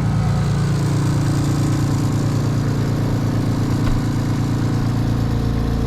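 Boat's outboard motor running steadily at low speed.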